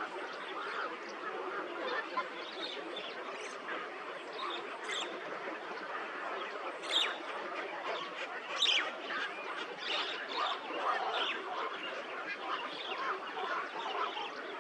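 Many birds calling at once in a dense, continuous chatter of overlapping calls, with a few sharper, louder calls standing out about 2, 7 and 9 seconds in.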